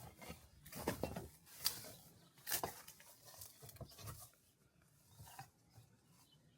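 Faint footsteps on a dirt trail, about one step a second, the loudest few a second or two in.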